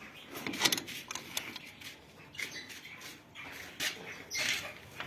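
Aviary birds, mostly cockatiels, giving short, irregular chirps and calls.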